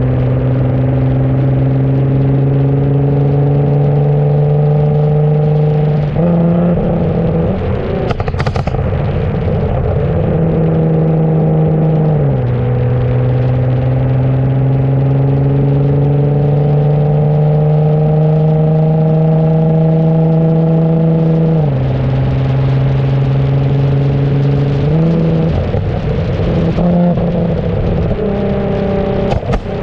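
Nissan GT-R R35's twin-turbo V6 engine pulling under light throttle. Its pitch climbs slowly and then drops at several gear changes. A few sharp pops come near the end.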